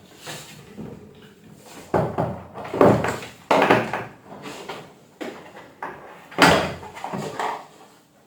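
A string of irregular knocks and clatters of hard objects being handled. The loudest come about two, three and six and a half seconds in.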